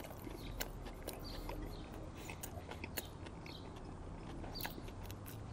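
A person chewing a mouthful of crispy breaded chicken sandwich close to the microphone, with irregular crisp, wet clicks of mastication.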